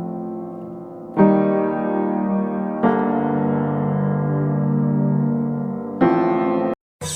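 Background piano music: slow, held chords that change every second or two, cutting off abruptly near the end.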